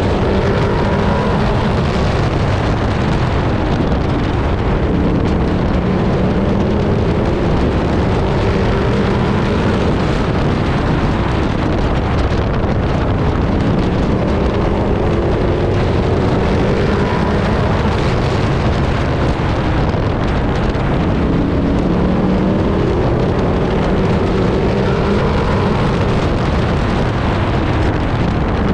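Pro truck race engine heard from inside the cab at racing speed, its note rising and falling over and over as the truck accelerates and eases off, with a steady roar of road and wind noise underneath.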